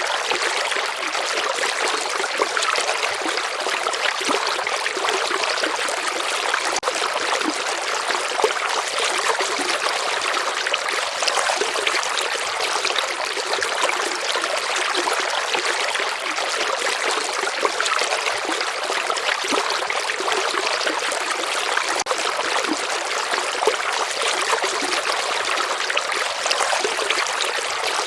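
A flowing stream of water running steadily, a dense bright trickling and splashing with no pauses.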